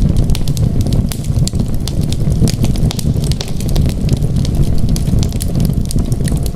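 Wood fire crackling, with many small sharp pops over a steady low rumble of the flames.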